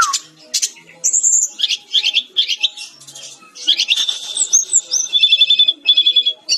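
A sikatan-rimba dada-coklat (Cyornis olivaceus, a jungle flycatcher) singing vigorously: a fast, varied song of high whistles and trills, ending in a quick run of repeated notes.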